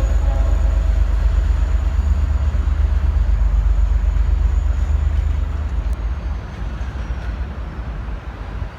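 V/Line N class diesel-electric locomotive-hauled train departing: a heavy low rumble with a thin steady high whine, fading over the last few seconds as the train pulls away.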